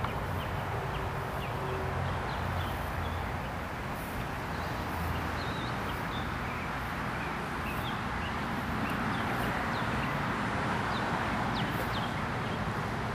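Birds chirping in short, scattered calls over a steady background rumble of wind or distant traffic.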